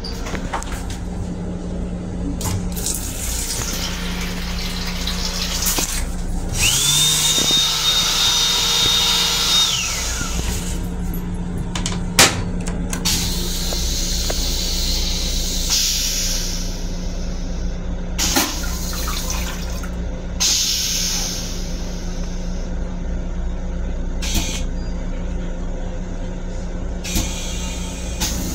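Steady hum and rumble of an LIRR M7 electric railcar, heard inside its small restroom. A high whine rises about seven seconds in, holds for a few seconds and then drops away, and a few sharp knocks come through.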